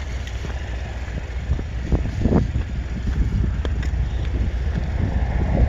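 Steady low rumble of wind on the phone's microphone mixed with passing road traffic, with a short swell about two seconds in.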